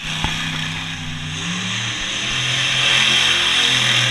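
Monster truck engine running and revving, its pitch rising and falling. It gets louder from about halfway through.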